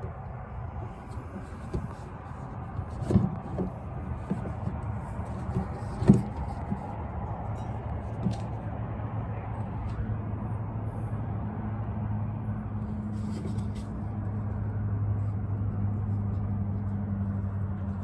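Steady low engine hum of a motor vehicle, growing louder in the second half, with a few sharp knocks about 3 and 6 seconds in.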